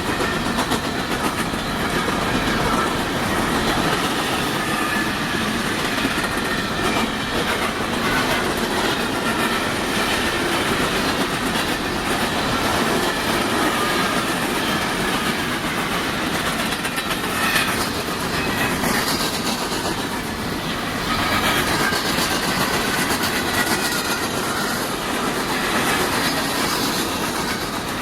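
Coal train cars rolling past at about 60 mph: a steady rail rumble with the rapid clickety-clack of wheels over rail joints and a faint wavering wheel squeal.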